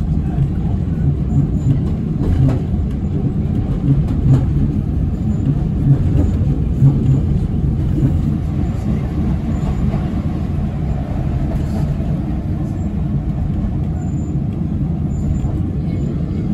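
Train carriage running along the track: a steady low rumble of wheels on rails, with a few light knocks and clicks.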